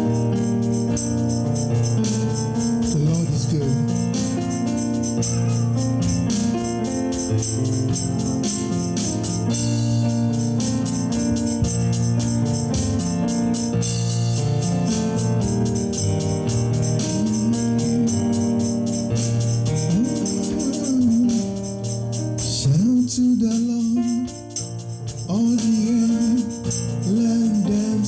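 Gospel music: held keyboard or organ chords over a steady, fast tambourine jingle. A single voice sings wordless held and sliding notes in the second half.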